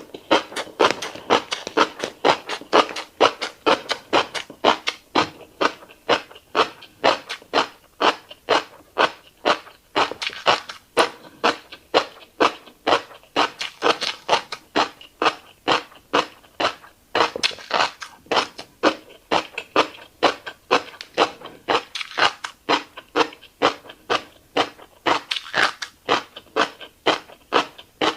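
Close-miked chewing of a mouthful of fish roe and caviar, in a steady rhythm of about two to three chews a second.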